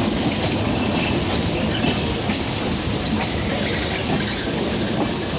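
Two trains running side by side: the rumble and rail noise of red LHB passenger coaches rolling past on the adjacent track, heard from the open door of a moving EMU local. The noise is steady and loud throughout.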